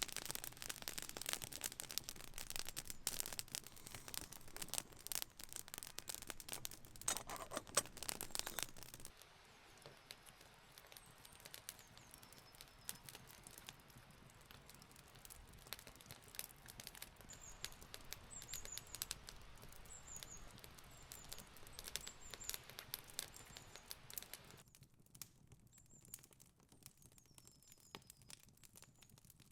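Dense fine crackling for about nine seconds, then a quieter stretch where small birds give short high chirps over scattered soft ticks.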